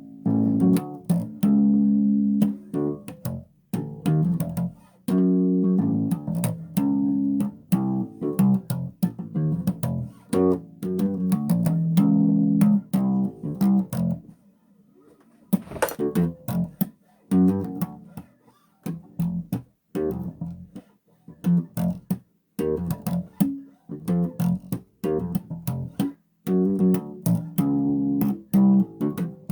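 Bass guitar played solo, a steady run of plucked notes with a brief pause about halfway through.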